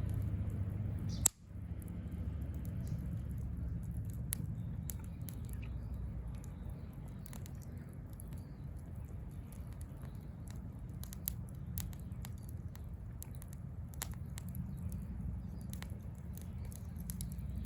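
Wood bonfire crackling: scattered sharp pops and snaps over a steady low rumble of burning, with one loud sharp click about a second in.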